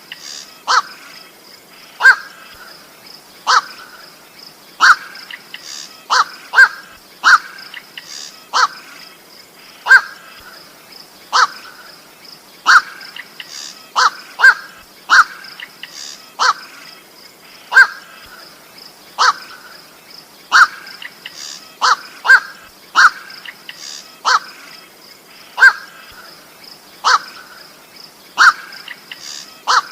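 Night heron (koak) giving short, harsh single-note calls again and again, about one every second or two, some in quick pairs. A faint steady high hiss runs underneath.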